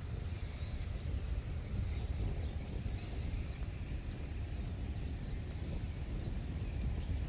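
Outdoor nature ambience: a steady low wind rumble, with small birds chirping in short calls throughout.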